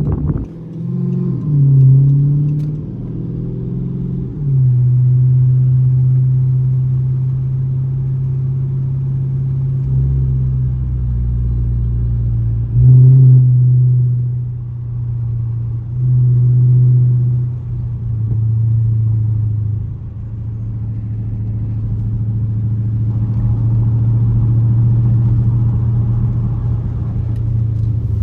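Straight-piped 6.4-litre Hemi V8 exhaust of a 2012 Dodge Charger SRT8 under way. The revs rise and fall in the first few seconds, then settle into a steady drone that changes pitch and loudness several times. A deeper rumble comes in for a few seconds midway, with the loudest surge about thirteen seconds in.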